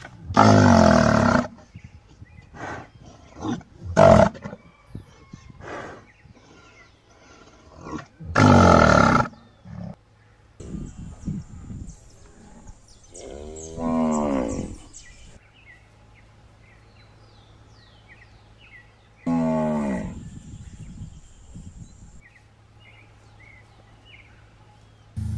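Hereford-type cattle mooing: four loud, drawn-out moos several seconds apart, one sliding down in pitch, with shorter low calls in between. Faint bird chirps in the background.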